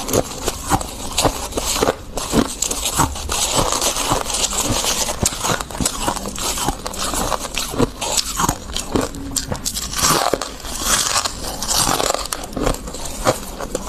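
Close-up crunching of freezer frost being bitten and chewed, a dense run of crisp, irregular crackles.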